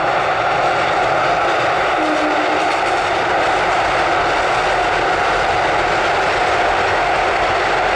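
ICF Medha EMU local train running across an open steel girder bridge: a loud, steady rumble of wheels on rails and bridge deck.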